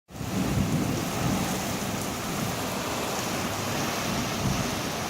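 Steady heavy rain from a thunderstorm, with a low rumble of thunder underneath that is strongest in the first second.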